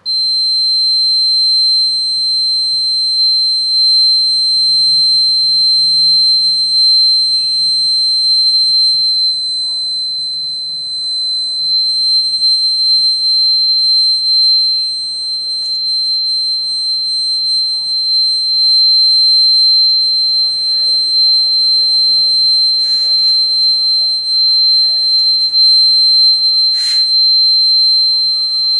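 Homemade rain alarm's buzzer sounding one continuous, steady high-pitched tone, the signal that the rain sensor has detected water. It switches on suddenly at the start, with a few faint clicks along the way.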